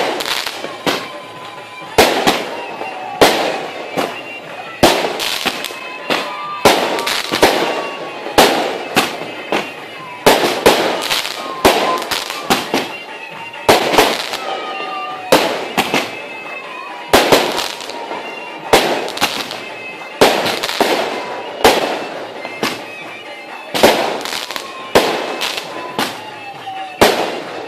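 Aerial fireworks going off in a rapid, irregular barrage of sharp bangs, about one a second, each followed by a crackling tail.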